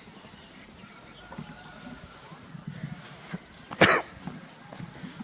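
A single short cough about four seconds in, over a steady high-pitched insect drone and faint bird chirps in forest.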